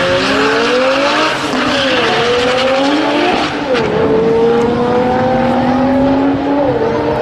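Car engine under hard acceleration at high revs. Its pitch wavers under a hissing noise for the first few seconds, then climbs steadily and drops sharply twice, at upshifts, about 3.5 seconds in and again near the end.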